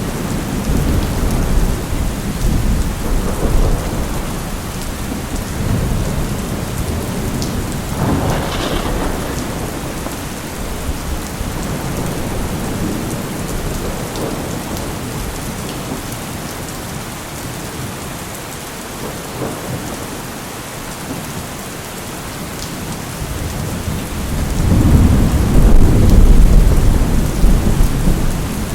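Steady rain with rolling thunder. A sharper crack comes about eight seconds in, and a loud, deep roll of thunder swells near the end.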